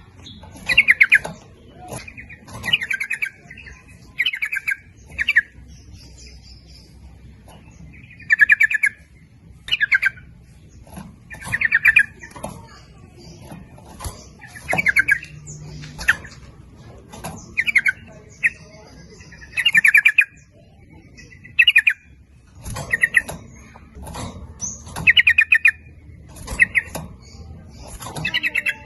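Sooty-headed bulbuls calling: short, rapid rattling phrases, repeated every second or two with brief gaps.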